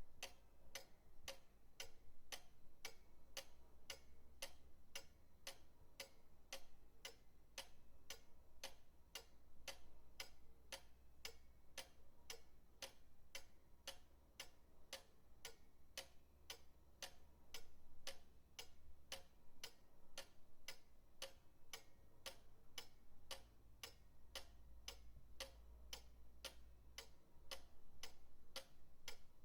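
Pendulum clock ticking steadily, about two ticks a second.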